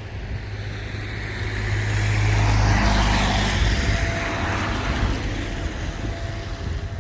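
A road vehicle passing close by: its engine and tyre noise swell to a peak about three seconds in, then slowly fade.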